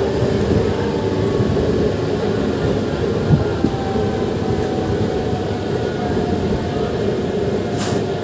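Electric MEMU passenger train running along the line, heard from inside the coach: a continuous rumble of wheels on track with a faint whine that sinks slightly in pitch. A short knock about three seconds in and a brief click near the end.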